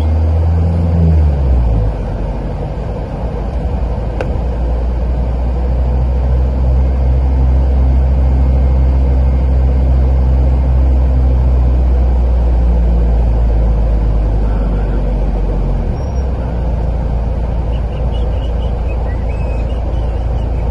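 A car driving on a road: a steady low engine drone with tyre and road noise. The engine note rises and then falls away about a second in, then holds steady at cruising speed.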